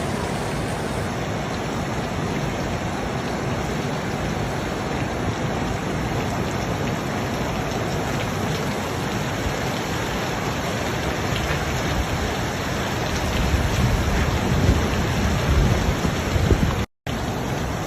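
Heavy rain falling steadily, with low rumbling swells in the last few seconds; the sound cuts off briefly just before the end.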